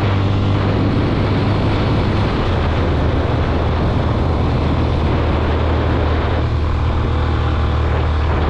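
Motorcycle engine running steadily under way, with rushing wind and road noise; its pitch drops slightly about two and a half seconds in.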